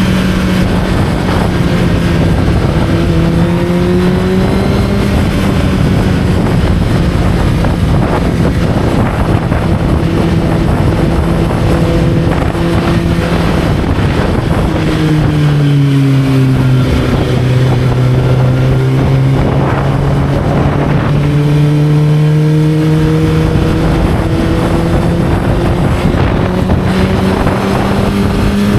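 Motorcycle engine running while riding, with wind rushing over the microphone. The engine note drops about halfway through as the bike slows, holds low for several seconds, then climbs steadily as it speeds up again.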